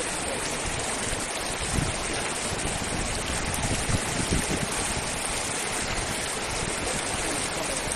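Steady rush of flowing river water, an even hiss, with a few short low thumps.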